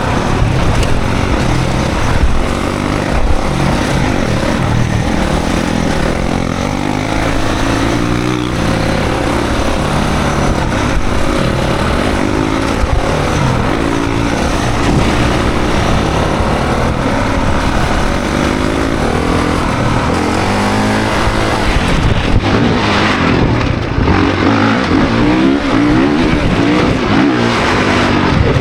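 2024 Honda CRF450 dirt bike's 450 cc single-cylinder four-stroke engine revving hard while being ridden, its pitch climbing and dropping again and again as the rider accelerates and shifts.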